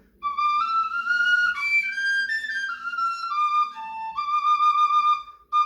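A sapel, a Russian folk duct (whistle) flute in G major with mixolydian tuning, playing a short stepwise melody in D minor. The tune breaks off briefly near the end, then starts again on a new note.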